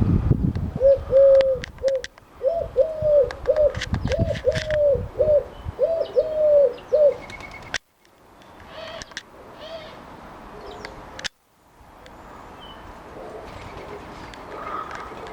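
A dove cooing in a run of short, even coos for about six seconds, with small birds chirping. There are low thumps at the start and about four seconds in. The cooing stops about eight seconds in, and after that only faint chirps remain.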